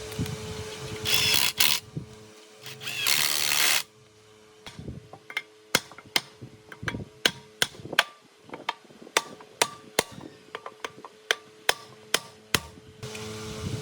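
Workshop tool sounds: a steady motor hum, two short loud bursts of noise, then a run of sharp, irregular taps at roughly two a second before the hum returns.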